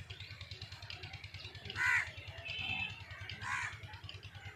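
A bird calling twice, short calls about a second and a half apart, over a steady low rumble.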